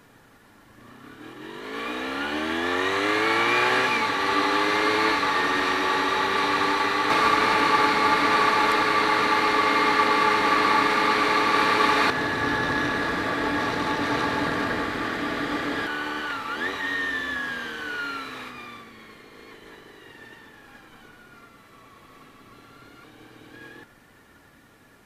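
Honda VFR400 NC30's V4 engine accelerating under load: the revs climb over the first few seconds with a shift at about four seconds, then hold steady. After about seventeen seconds the revs fall away and the sound fades to a low level.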